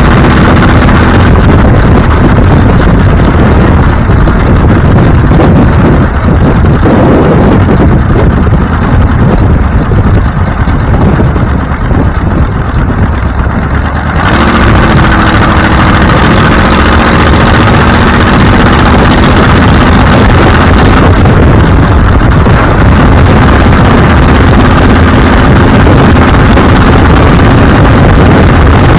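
Car engine running while driving, with heavy road and wind noise. About halfway through the engine's note comes through more clearly and rises a little as it speeds up.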